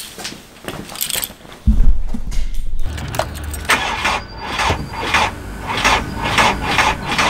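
VW Caddy SDI diesel engine starting at once, catching with a loud low burst about two seconds in, then running at idle with a regular pulse about twice a second.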